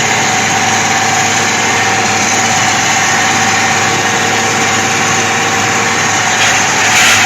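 Vehicle engine running steadily at an even speed, loud and close, with a constant whine over the drone and a brief rush of noise near the end.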